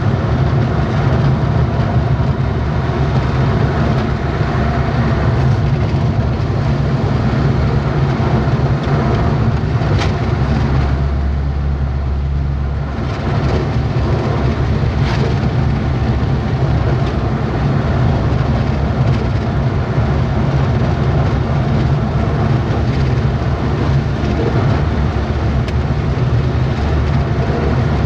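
Vehicle driving along a road: a steady, loud low rumble of engine and road noise, easing briefly about halfway through before carrying on.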